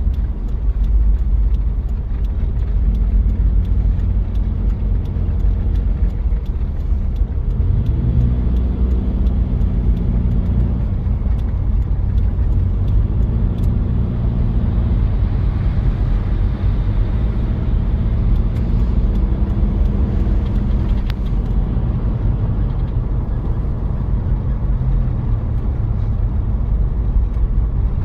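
Diesel engine of a 1993 Toyota Prado running under way, with a heavy low rumble; from about eight seconds in its note rises and falls several times as the engine revs up and settles.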